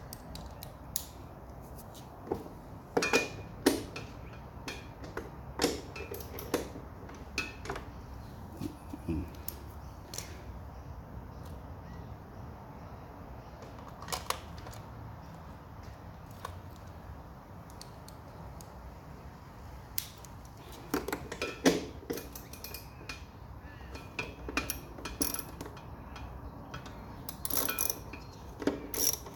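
Scattered metallic clinks and clatters of hand tools being picked up and tried on a bolt, in short clusters with quieter stretches between, over a steady low hum.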